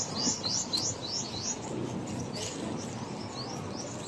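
A songbird singing a fast run of short, high chirps, about four a second, that stops about a second and a half in, followed by a few scattered chirps. A steady low background rumble runs underneath.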